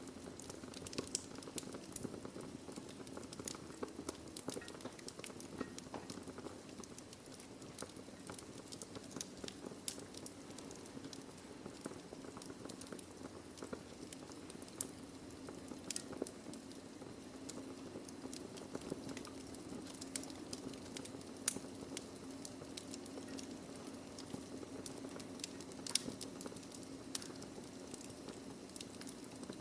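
Wood fire burning in a fireplace: a steady soft hiss under constant irregular crackling and popping of burning logs, with one sharper pop about two-thirds of the way through.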